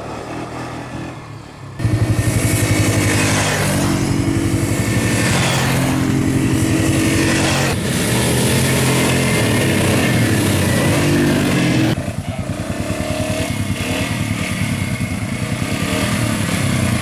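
Quad bike (ATV) engine running under throttle, its pitch rising and falling as it is revved and eased off; it comes in abruptly about two seconds in and drops to a quieter, lower running about twelve seconds in.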